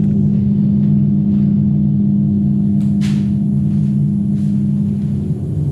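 A machine motor running with a steady, loud low hum, with a short hiss about three seconds in.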